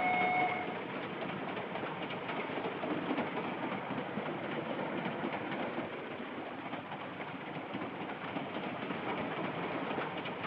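Passenger train running at speed, heard from inside the carriage: a steady noisy rattle of the coach on the rails.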